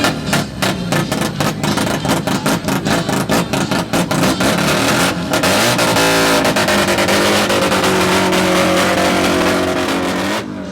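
Car engine being revved hard: a fast stuttering run, about five pulses a second, for the first half, then a held high rev that climbs slowly and drops away near the end.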